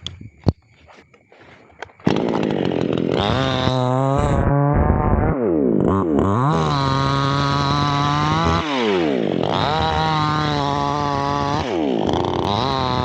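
Chainsaw engine starting up about two seconds in after a few clicks, then running loudly and revving up and dropping back several times.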